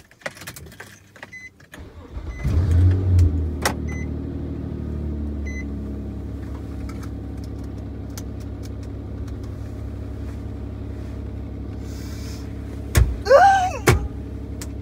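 Car engine cranked and started about two seconds in, with a short flare of revs, then idling steadily as heard from inside the cabin. A few soft electronic beeps sound during the start, and two sharp clicks with a brief squeak come near the end.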